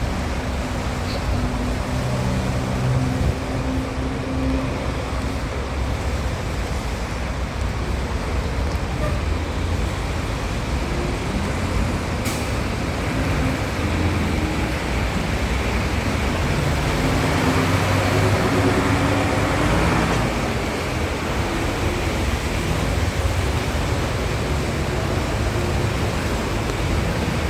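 Street traffic in the rain: a steady hiss of rain and tyres on wet road, with vehicle engines running past. A larger vehicle passes loudest about two-thirds of the way through.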